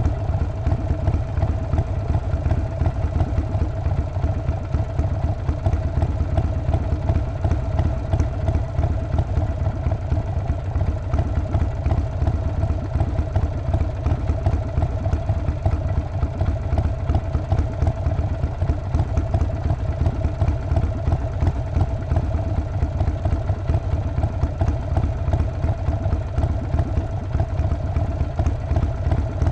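Harley-Davidson Sportster 48's 1200 cc air-cooled V-twin engine and exhaust running at a steady, unchanging engine speed, with a strong low pulsing beat.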